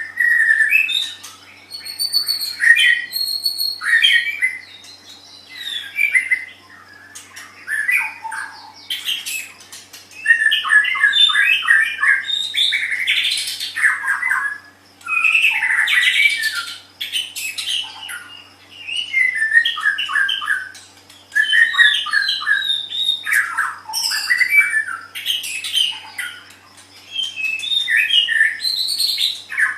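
White-rumped shama (murai batu) singing loudly: a varied song of whistled phrases and rapid runs of repeated notes, with short pauses between phrases. A faint steady hum lies underneath.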